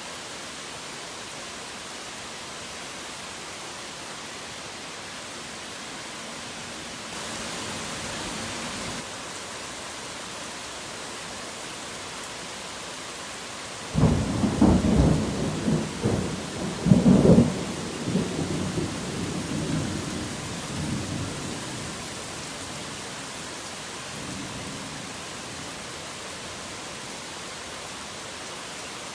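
Steady heavy rain hissing, with a thunderclap about halfway through that cracks in suddenly and rumbles on for several seconds before dying away.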